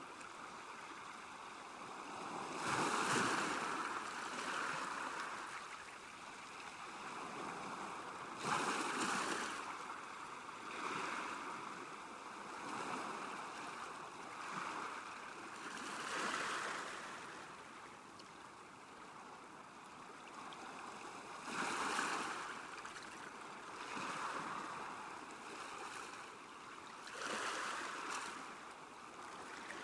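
Small waves lapping on a lakeshore, washing in as soft surges every few seconds, the strongest about three, eight and twenty-two seconds in.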